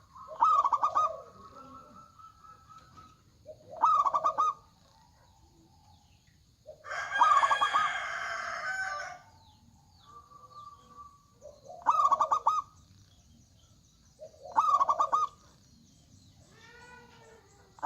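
Zebra doves cooing: short rolling phrases repeated every three to four seconds, five in all. Near the middle a longer, harsher call of about two seconds overlaps one of the phrases.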